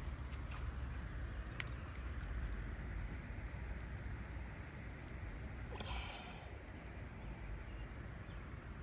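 Steady rush of a creek running high, with a low rumble underneath, and a brief louder noise about six seconds in.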